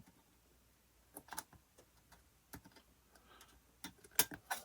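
Xuron photo-etch cutters snipping and clicking at a thick photo-etch fret: a handful of sharp, scattered clicks, the loudest pair near the end.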